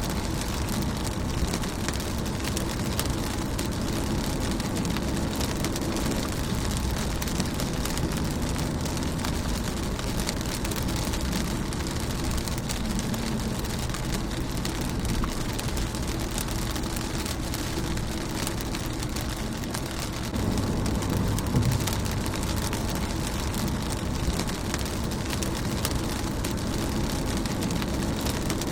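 Steady rain pattering on a car's windshield and body. A low rumble sits underneath and grows a little louder about twenty seconds in.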